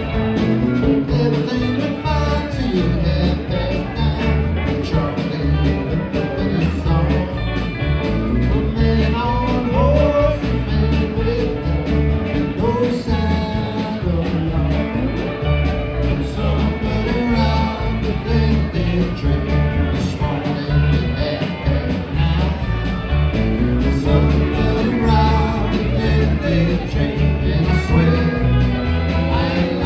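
Live band playing a country-rock song, with guitar over a steady bass and drum beat.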